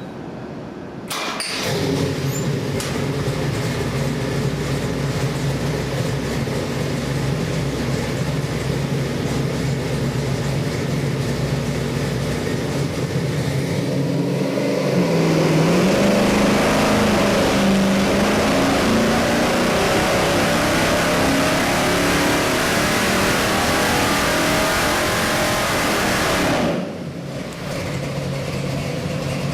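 Chevy 540 cubic-inch big-block V8 with a Holley carburetor running on an engine dyno test stand. It comes in abruptly about a second in and runs steadily, then rises in speed about halfway. It is held louder at higher rpm for about ten seconds, then drops back sharply near the end.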